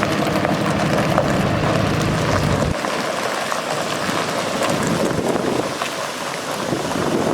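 A truck's Cummins 6.7L ISB diesel engine runs with a low steady note that stops suddenly a little under three seconds in. After that there is a steady rush of wind noise on the microphone.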